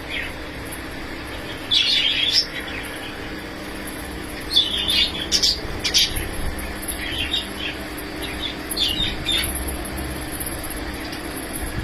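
Aviary birds calling and chattering in short bursts, about four times, over a steady low hum.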